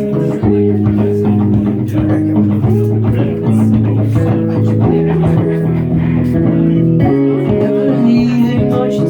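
Live music: electric guitar playing held notes and chord changes over a sustained low bass line.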